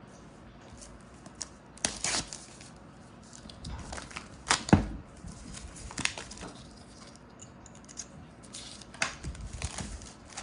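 Packaging of a Sena 50S intercom being opened and handled by hand: irregular taps, scrapes and rustling tears, with a sharper knock about halfway through.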